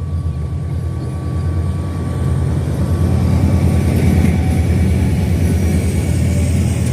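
A train running, a loud steady low rumble that grows a little louder about three seconds in.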